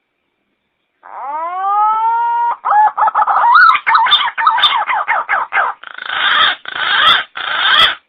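Pink-necked green pigeon (punai gading) calling, played as a lure recording. About a second in comes a rising whistle, then a run of wavering, warbling whistles, then three harsh rasping notes near the end.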